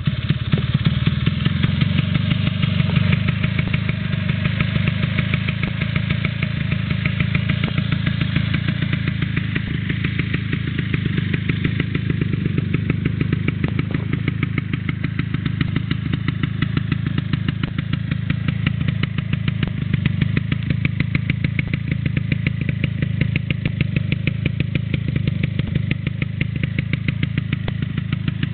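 Vespa PX two-stroke engine with a 177 cc cylinder kit idling steadily through its stock muffler, which has been gutted and shortened, giving a deep exhaust note with lots of bass.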